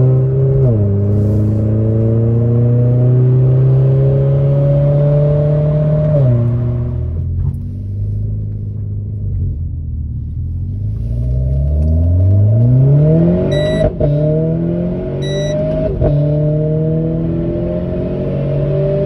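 Renault Clio 4 RS Trophy's turbocharged 1.6-litre four-cylinder heard from inside the cabin, accelerating through the gears. The engine note climbs steadily and drops back at each quick upshift of the dual-clutch gearbox, four times: about a second in, about six seconds in, and twice in the last third.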